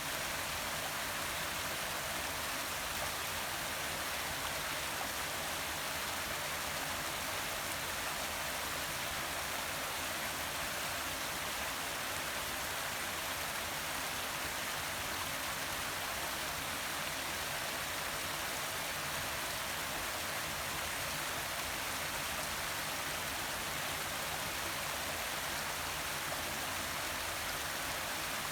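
Forest waterfall: a steady rush of falling and splashing water.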